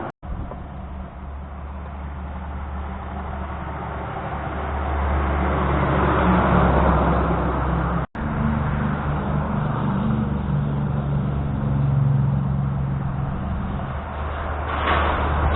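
Heavy trucks driving past on a highway: a low engine rumble with tyre and road noise that swells as each vehicle goes by. The sound cuts out briefly twice, just after the start and about eight seconds in.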